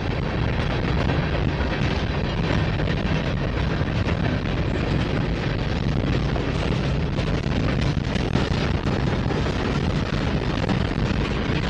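Freight train rolling past: a steady, loud rumble of moving cars and wheels on rail, with some wind on the microphone.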